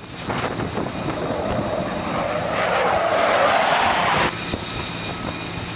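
Aircraft engine noise, with a louder rushing swell about two and a half seconds in that cuts off abruptly just after four seconds.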